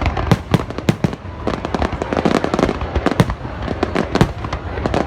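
Fireworks display: a rapid, irregular barrage of aerial shell bursts and crackling, several bangs a second.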